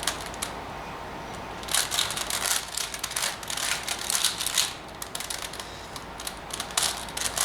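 Plastic 4x4 Rubik's cube (Rubik's Revenge) being turned by hand: rapid runs of clicking as its layers snap round, with a long burst from about two seconds in and a short one near the end.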